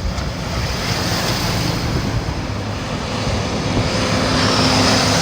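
A passing engine, its noise slowly swelling to a peak near the end, with a faint steady hum showing late.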